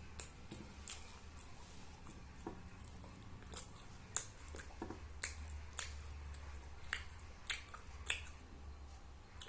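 A person eating biryani with their hands: scattered short wet chewing and mouth clicks, at irregular intervals, over a faint steady low hum.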